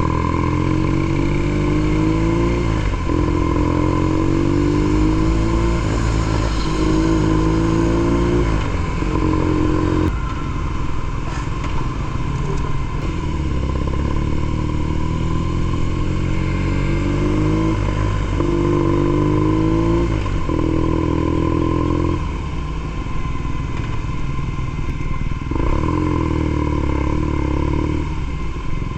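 BMW R nineT Pure's boxer twin, breathing through a ZARD aftermarket exhaust, pulling through the gears: its pitch climbs in one run after another, each cut off by a shift. Near the end it runs more evenly.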